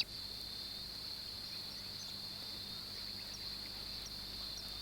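A steady, high-pitched insect trill with no breaks, with a few faint, short, downward-sliding bird chirps in the second half.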